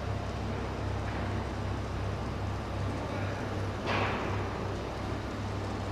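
Steady low machine hum that pulses slightly, under a background of noise, with a short burst of hiss about four seconds in.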